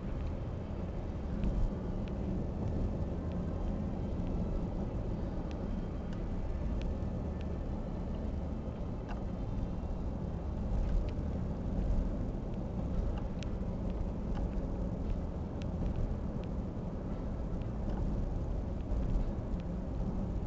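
Steady low engine rumble with faint scattered clicks and taps.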